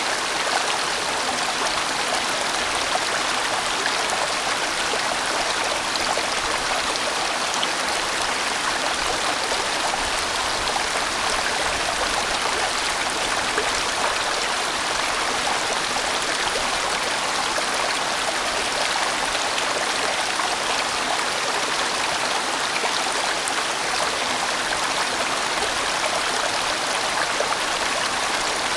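Steady rushing of a large mountain valley stream flowing over rocks, a dense even wash of water noise without letup.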